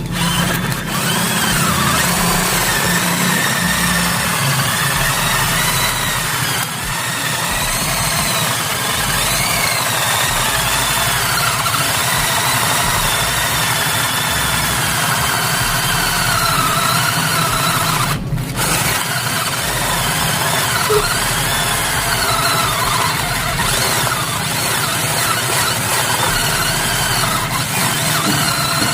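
Hiltec 15 V cordless drill running under load as it drills, its motor whine wavering in pitch with squealing. It stops briefly about 18 seconds in, then runs on.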